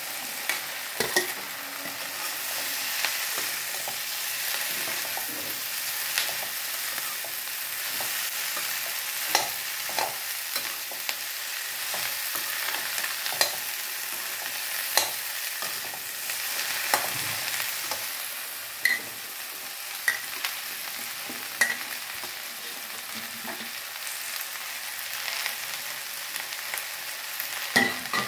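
Chopped okra frying in hot mustard oil in a metal kadhai: a steady sizzle, with the perforated steel skimmer scraping and clicking against the pan now and then as the okra is stirred.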